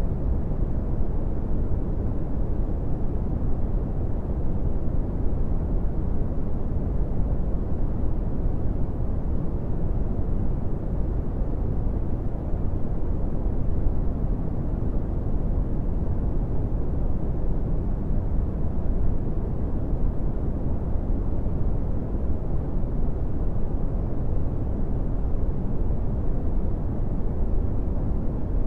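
Brown noise: a steady, unchanging deep rushing hiss, strongest in the lows and dull above, with nothing else in it.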